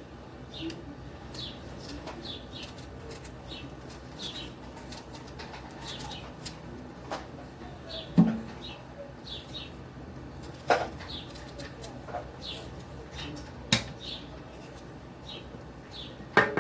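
Potatoes being peeled by hand: short scraping strokes about one or two a second, with a few sharper knocks in between.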